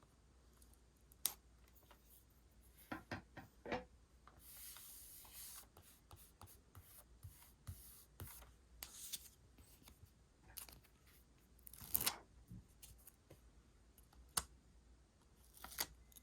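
Quiet, close stationery and paper handling while decorating a journal: scattered sharp clicks and snips, and a longer rustle of paper rubbing about four seconds in.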